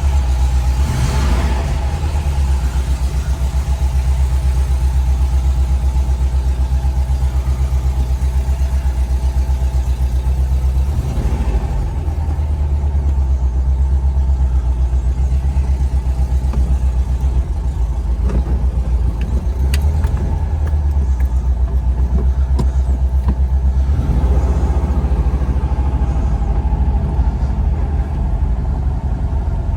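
1972 Porsche 914's air-cooled flat-four engine running with a steady low drone. Its note changes briefly about a second in, again around eleven seconds in, and again around twenty-four seconds in.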